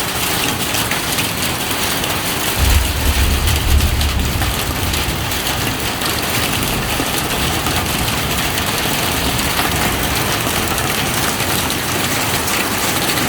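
Heavy rain falling steadily. About two and a half seconds in, a low rumble swells for a couple of seconds and fades.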